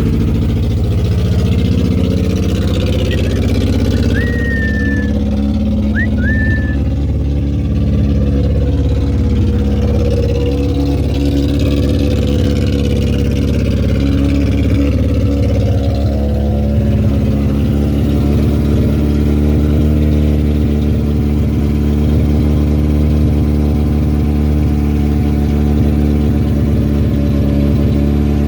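Car engine running, its pitch rising and falling unevenly over the first several seconds, then settling into a steady idle.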